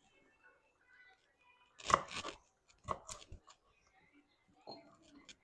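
Fresh string beans being snapped by hand: several short, crisp snaps, the loudest about two seconds in.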